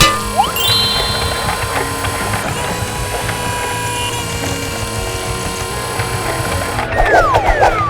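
A motor running steadily, with a short rising glide about half a second in and several falling whistle-like glides near the end.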